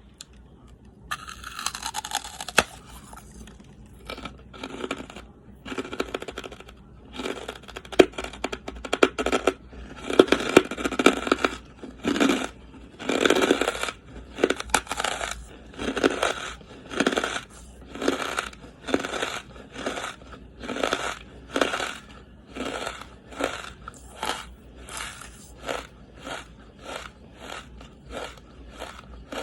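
Charcoal being bitten and chewed close to the microphone: a long run of dry, crisp crunches about once or twice a second, after a longer scraping crackle near the start.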